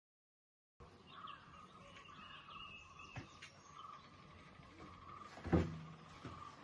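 Birds chirping in short calls over a steady, high, even background drone, starting a moment in after dead silence. A single dull thump about five seconds in is the loudest sound.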